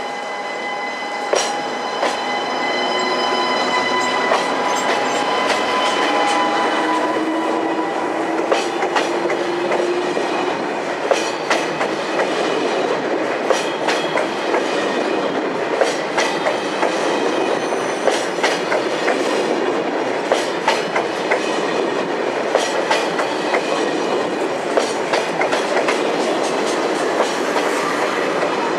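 SNCF TGV Duplex high-speed train rolling slowly past along the platform as it pulls out of the station, with a steady rumble. A whining tone from the power car rises gently in the first few seconds, and the wheels clack sharply over rail joints and points throughout.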